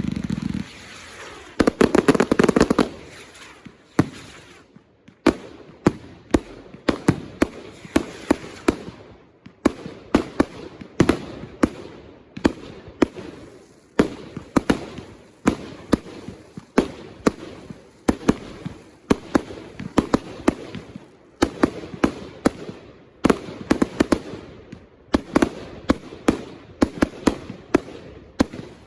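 Consumer fireworks firing in a continuous barrage: a rapid run of sharp bangs, several a second, with brief gaps between volleys.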